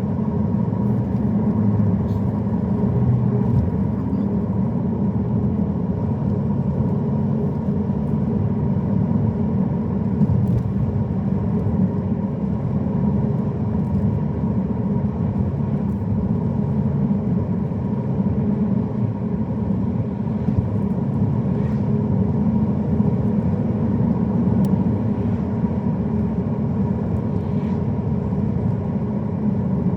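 A car driving: a steady low rumble of engine and tyres on the road, unbroken and even in level, with a faint steady tone above it.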